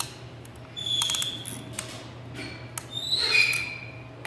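Ring compressor being worked around a piston: two short high-pitched metal squeaks, about a second in and again near the end, with light metallic clicks between them.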